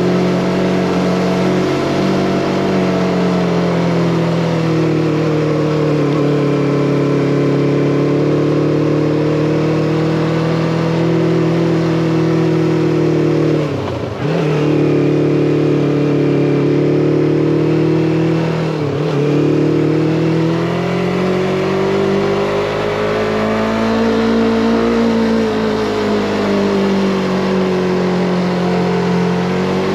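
Yamaha MT-25's parallel-twin engine running under way, its note rising and falling gently with the throttle. Twice, about 14 and 19 seconds in, the engine note dips sharply for a moment and comes back.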